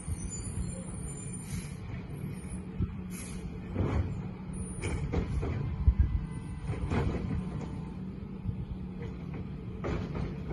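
Side-loader recycling truck running with a steady low engine hum, broken by several short clanks and knocks, the loudest about six seconds in.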